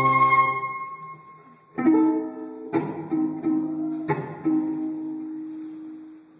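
Live solo music: a held, flute-like tone fades away, then a violin is plucked pizzicato, a few single notes and short chords that ring and slowly die away.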